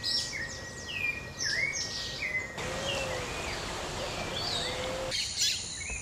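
Several birds calling, with many short chirps and whistled slurs over a steady background hiss, and a few lower notes in the middle. The background changes abruptly twice, about two and a half and five seconds in.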